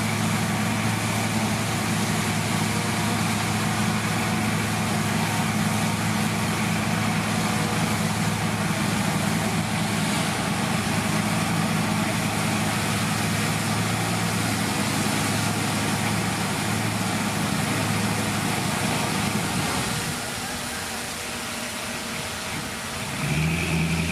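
Heavy diesel engine of earthmoving machinery running steadily. About twenty seconds in it drops in level, then picks up again at a higher pitch near the end.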